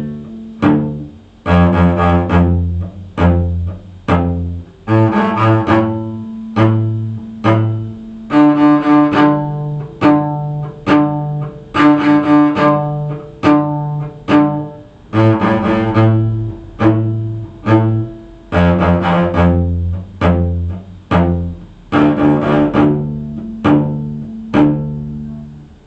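A cello playing an F major arpeggio with a repeated 'strawberry, up, up, up' bowing pattern, each note sounded as a group of short bow strokes. The notes climb and fall several times, with the low notes returning about a third and two-thirds of the way through.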